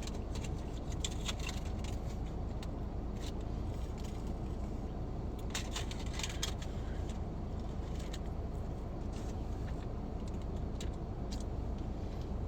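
Small clicks and crackles of eating and handling food over the steady low hum inside a car, with a thicker cluster about six seconds in.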